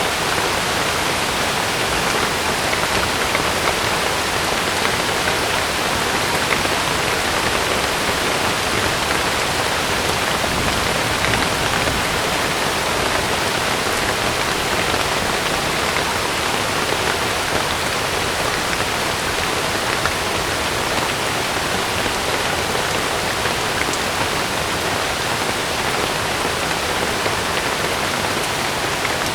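Heavy rain falling steadily on a camping tent: a dense, even hiss that holds at one level, with no thunder.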